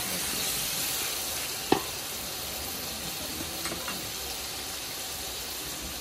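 Chicken pieces and chopped tomatoes frying in oil in an aluminium pot, a steady sizzle, with a wooden spoon stirring through them. A single sharp tap about two seconds in and a few faint clicks a little later.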